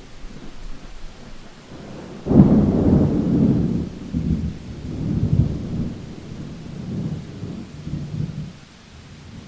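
A thunderclap breaks sharply a little over two seconds in, then rolls on in several deep rumbles that fade away over about six seconds. Steady rain hiss runs underneath.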